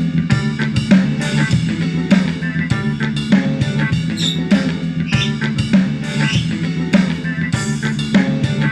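Drum-heavy music with a steady beat and a strong bass line, played back through a portable Bluetooth speaker and picked up by an external microphone.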